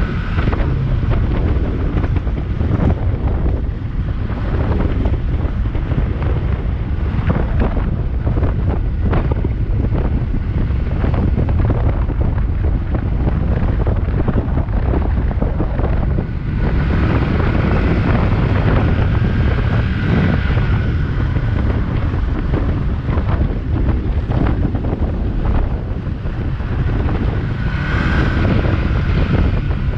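Heavy wind buffeting on the microphone while riding a Yamaha XS400 motorcycle, with the engine running underneath.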